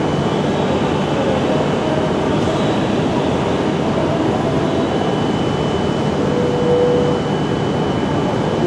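Tohoku Shinkansen train running at a station platform, a steady loud rumble of wheels and traction equipment. A brief tone stands out about two-thirds of the way through.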